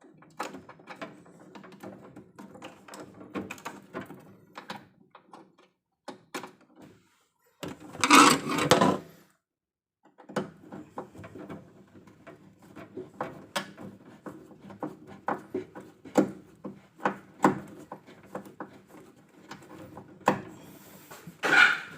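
Irregular clicks and knocks of things being handled, with a louder rustling burst lasting about a second about eight seconds in and a short gap of silence just after it.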